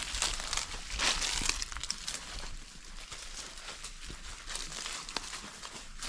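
Rustling and crackling of leaves and vegetation, louder near the start and about a second in, with a few light clicks.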